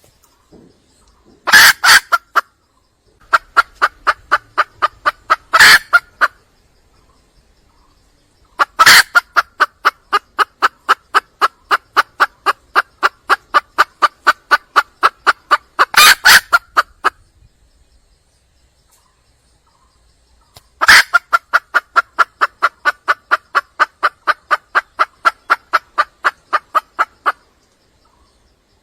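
Red junglefowl hen calling with long trains of rapid clucks, about five a second, in four bouts with short pauses between, a few sharper, louder notes among them. It is a wild hen's call for a mate, to draw in a cock.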